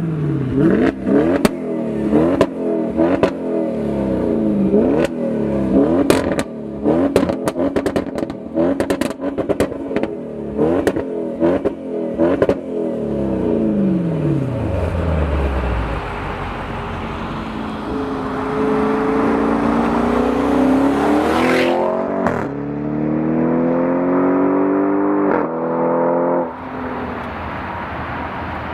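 V8 sports car engine blipped hard over and over, each rev rising and falling quickly, with sharp exhaust cracks among the revs. The revs then die away, and the car accelerates hard, its pitch climbing through one gear change before the sound drops away suddenly near the end.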